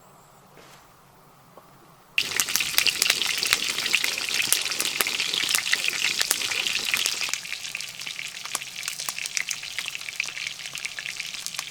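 Water splashing and crackling as potatoes are washed, starting suddenly about two seconds in and easing somewhat after about seven seconds.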